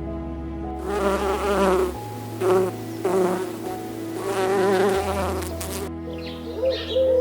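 A flying insect buzzing in about four separate passes, each a wavering drone, over background music with held chords.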